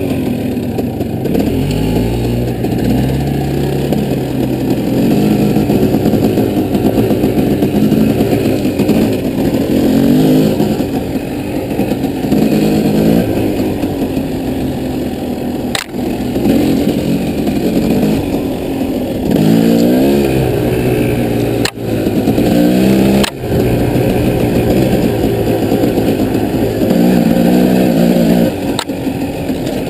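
Off-road vehicle engine running under load on a dirt trail, its pitch repeatedly climbing as it revs and dropping back between gears or throttle changes. A few sharp knocks of the machine jolting over rough ground come through in the second half.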